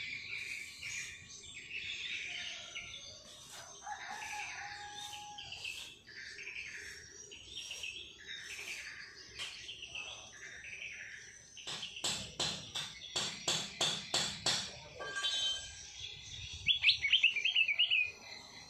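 Cage songbirds chirping and singing in short repeated phrases. About twelve seconds in comes a fast run of sharp notes, and near the end a loud warbling trill.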